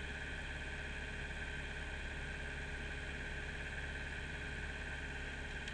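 Kubota mini excavator's diesel engine running steadily, a constant drone with no change in speed.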